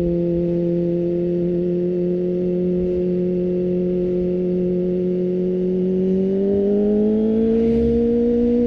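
Kawasaki ZX-25R's 250cc inline-four engine through an Akrapovic exhaust, heard onboard, running at steady revs. About six seconds in, the revs climb smoothly as the bike accelerates.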